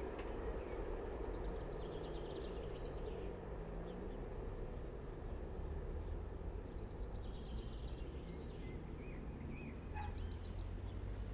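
Steady low rumble of a freight train, with birds chirping and trilling over it several times.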